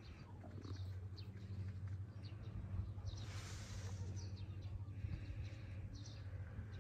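Small birds chirping in short, high calls that recur every second or so, over a steady low hum.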